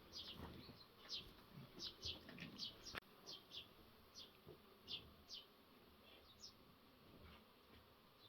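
Faint, quick high chirps of small birds, repeated irregularly and dying away in the second half, with one sharp click about three seconds in.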